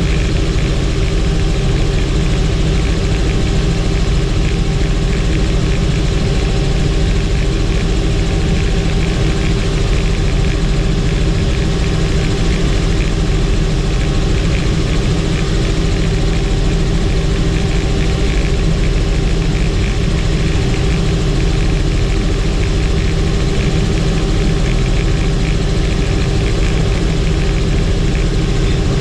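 Helicopter turbine and rotors running steadily in flight, a constant loud drone with a steady low hum and whine.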